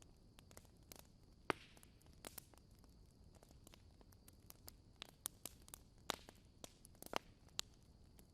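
Wood fire burning in a fireplace: soft crackling with sharp, irregular pops, a loud one about a second and a half in and a cluster of stronger pops in the second half.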